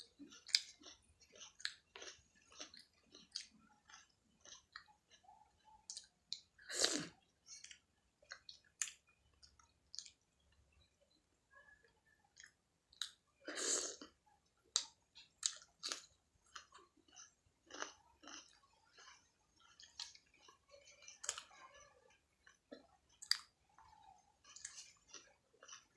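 Close-up chewing of Indian food: a steady run of short wet smacks and mouth clicks, with two louder, longer bites or chomps about 7 and 14 seconds in.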